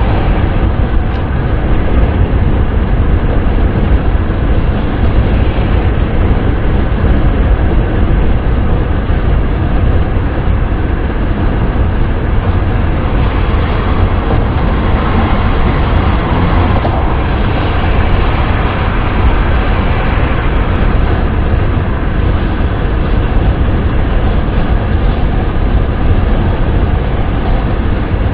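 Steady wind and road noise of a car driving at speed: a deep, even rumble with a hiss above it that grows a little brighter about halfway through.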